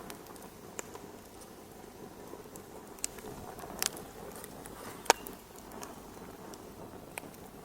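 Wood fire crackling in a fireplace: a steady low hiss of burning with scattered sharp pops at irregular intervals, the loudest about five seconds in.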